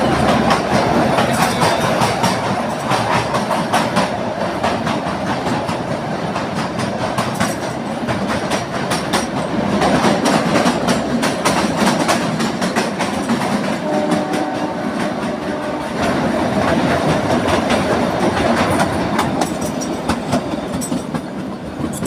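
Kalka–Shimla narrow-gauge toy train running, its carriage wheels clattering over the rail joints in a steady, rumbling clickety-clack.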